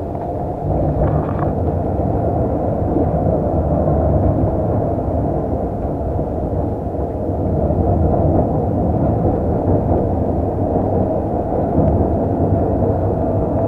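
Tram running along its track: a steady low rumble with a faint whine held above it.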